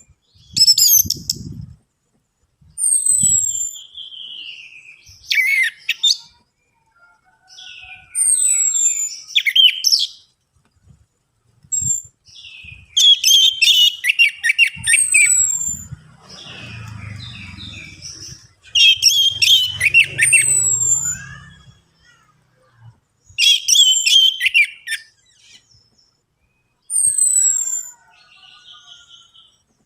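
Orange-headed thrush singing: a string of loud, varied phrases a second or two long, mixing clear downslurred whistles with rapid trills, with short pauses between phrases.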